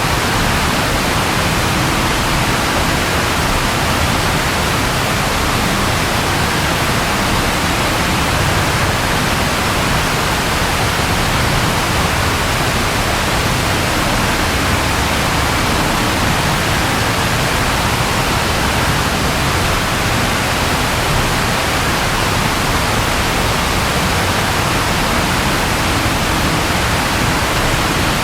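Steady rainfall, a dense even hiss.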